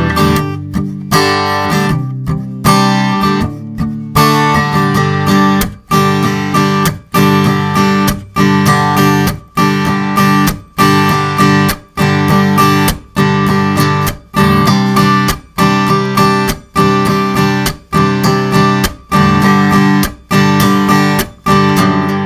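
Acoustic guitar strummed in a steady, repeating rhythm pattern of chords.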